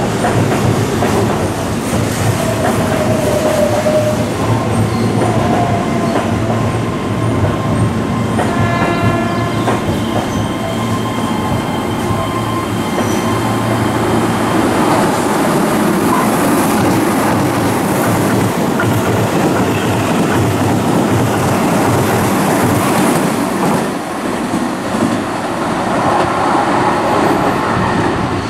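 Keihan 8000 series electric train running through the station over curved pointwork: a continuous rumble and clatter of wheels on rail joints, with a thin steady squeal from the wheels on the curves. About nine seconds in, a short pitched tone sounds.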